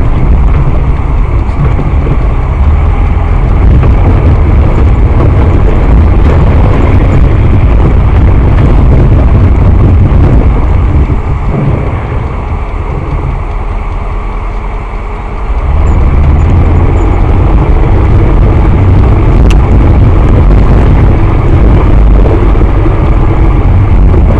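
Loud, steady vehicle engine and road noise picked up by a dash cam. It eases somewhat about twelve seconds in and comes back up near sixteen seconds.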